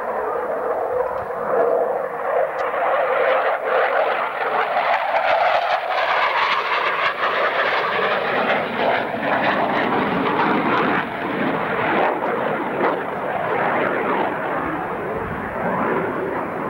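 Jet noise from a CF-18A Hornet's two General Electric F404 turbofans during a low-level display pass, loud and sustained, shifting in pitch as the fighter moves past.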